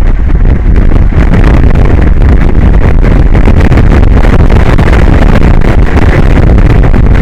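Strong wind buffeting the microphone: a loud, steady rumble with crackle throughout.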